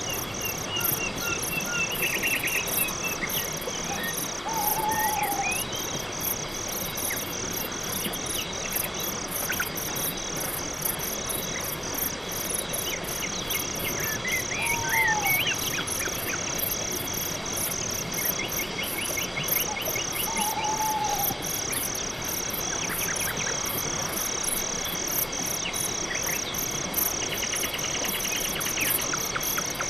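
Night-time insect chorus: crickets chirping in a steady, evenly pulsed rhythm, with scattered short bird-like chirps and trills. A short low call that curves downward comes a few times.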